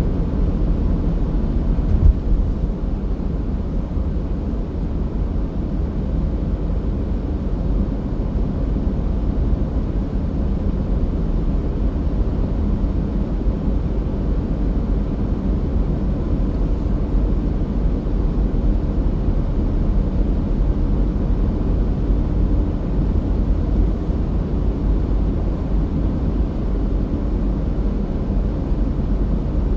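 Car driving at steady speed: a continuous low rumble of engine and tyres on the road, with a brief bump about two seconds in.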